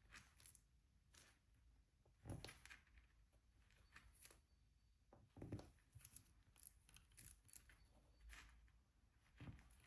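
Faint, irregular small taps and clicks of diamond painting: a drill pen picking up resin drills and pressing them onto the sticky canvas. A few taps are slightly louder, about two, five and nine and a half seconds in.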